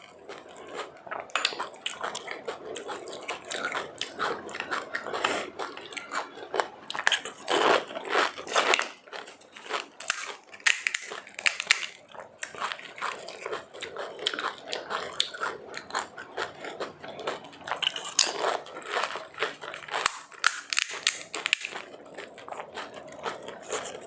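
A person biting and chewing food close to the microphone, with irregular crunches coming thick and fast throughout.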